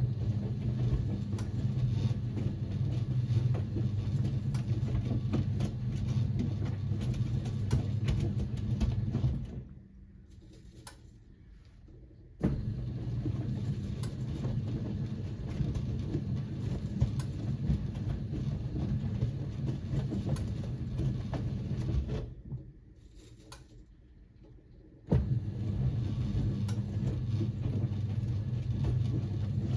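Siemens WA4600 washing machine in its wash cycle: the drum motor runs with a steady low hum for about ten seconds, stops for about three, and starts again abruptly. This on-pause-on pattern repeats twice.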